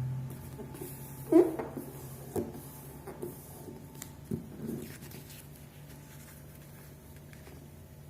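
A sheet of paper being handled and folded into a paper airplane: a few short crinkles and taps, the loudest about a second and a half in, over a low steady hum.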